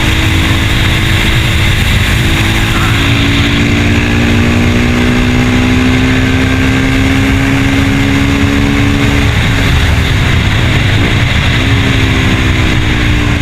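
KTM Duke 390's single-cylinder engine running under way, with heavy wind rush on the microphone. Its note climbs slowly for several seconds, then drops and dips twice later on.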